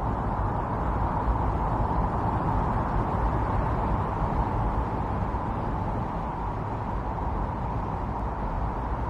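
Strong wind blowing steadily in a snowstorm ambience: a dense, even rushing noise with a deep low rumble beneath it.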